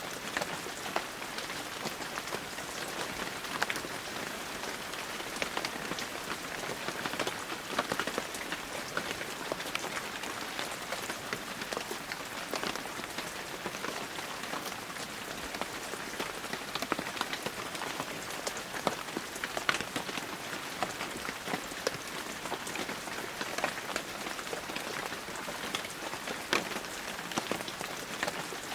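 Heavy rain falling steadily, an even hiss with many close, distinct drops ticking and splattering on surfaces.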